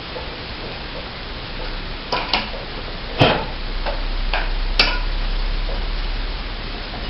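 About six sharp clicks and light knocks, spread irregularly over a few seconds, over a steady hiss and low hum.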